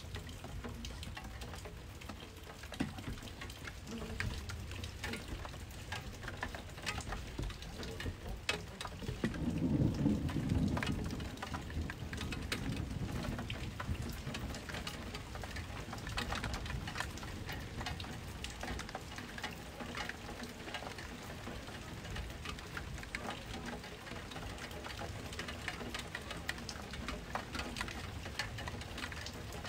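Thunderstorm rain falling steadily, with many sharp drips spattering on a hard surface close by. A low rumble of thunder swells about nine seconds in and dies away a few seconds later.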